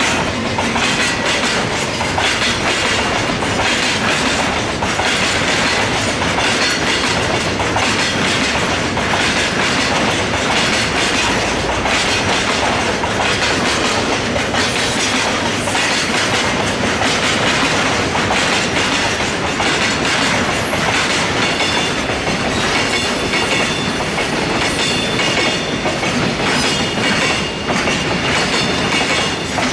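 Freight train of tank wagons and empty container flatcars rolling past at close range: a steady, loud clatter of wheels over rail joints.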